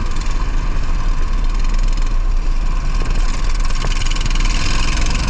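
Racing engine running steadily under a heavy, continuous wind rumble on the microphone.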